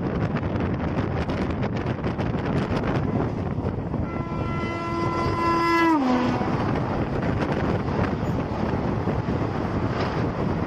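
Electric suburban local train running, heard from on board as a steady rumble of wheels and rails. About four seconds in, a train horn sounds for about two seconds and drops in pitch as it ends.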